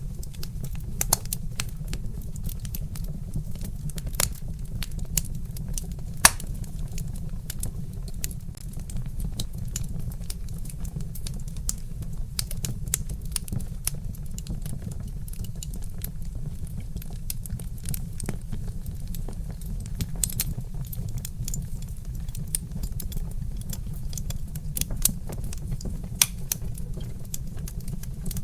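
Wood fire crackling: frequent sharp pops and snaps from burning logs over a steady low rumble, with one louder pop about six seconds in.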